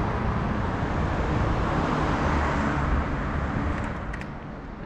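Road traffic: a motor vehicle passing on the street, its engine rumble and tyre noise fading away over the last second or so.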